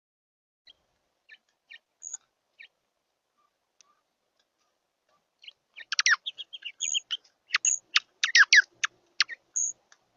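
Small birds chirping: a few scattered short, high chirps, then from about six seconds in a busy run of quick chirps and calls.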